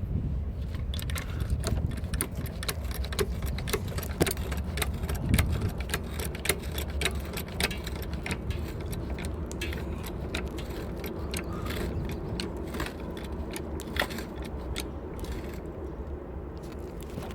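Irregular metallic clicks and clinks of hand tools and metal parts being handled during rear shock absorber replacement on a car, over a steady low rumble.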